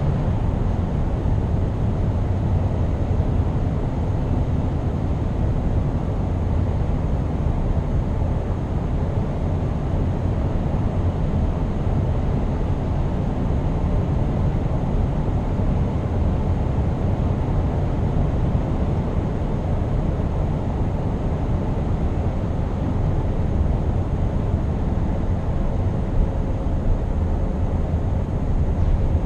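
Scania R520 truck's 16-litre V8 engine running steadily on the move, mixed with tyre and road noise in a low, even drone.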